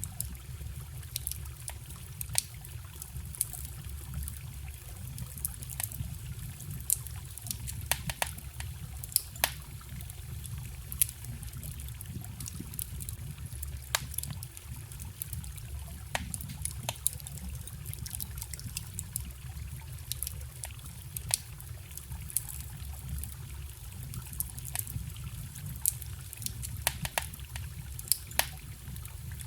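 Wood campfire crackling, with irregular sharp pops, a few louder than the rest, over the steady trickle and rush of a forest stream.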